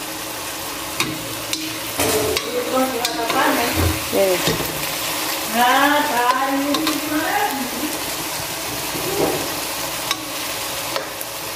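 Chopped onion and hot pepper frying in dendê (red palm) oil in a large metal pan, a steady sizzle as the sauté base browns. A metal spoon stirs and clicks against the pan a few times in the first seconds.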